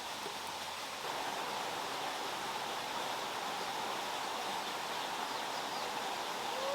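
Steady rushing of flowing water, stepping up a little in level about a second in.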